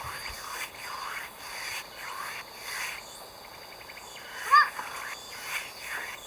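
Insects chirping and buzzing steadily in a high, pulsing chorus. About four and a half seconds in, one short, loud bird call stands out above it.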